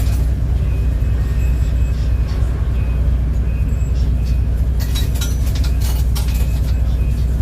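City bus in motion: a steady low engine and road rumble, with a burst of rattling clicks around five to six seconds in.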